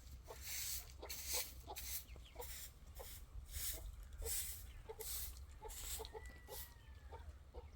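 Chickens clucking, short clucks repeated about twice a second, with a thin, slightly falling call about six seconds in.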